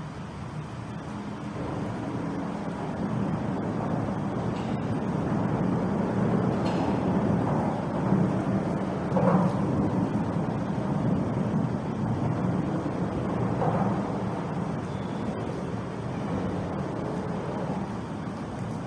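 Road traffic passing, its tyre and engine noise swelling to a peak about halfway through and then fading.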